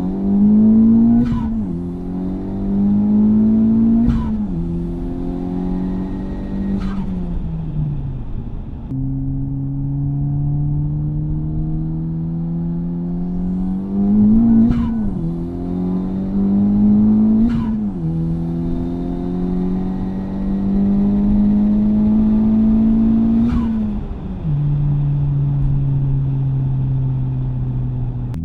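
Honda Civic Type R FL5's turbocharged 2.0-litre four-cylinder, with an RV6 660 turbo, an MXP exhaust with the valve open and an Airtec intake, accelerating through the gears. The engine note climbs steadily in pitch and drops sharply at each of about six upshifts, with a short sharp burst at each shift.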